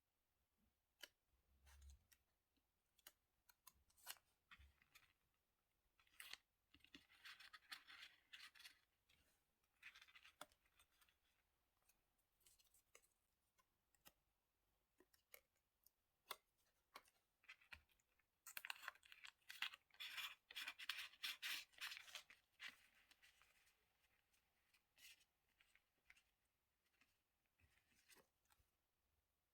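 Scissors cutting paper in two runs of quick snips, one about six seconds in and a longer one about halfway through, with scattered light taps and clicks of paper and stationery being handled between them.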